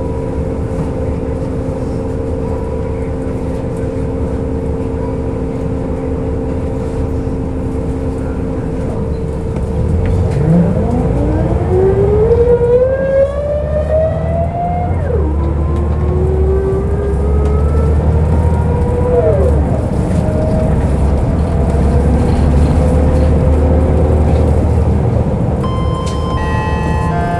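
Scania L94UB diesel bus idling with a steady hum, then pulling away: the ZF automatic gearbox whines loudly, rising in pitch and dropping back at each of two upshifts, then holds steady under the engine. A steady high tone starts near the end.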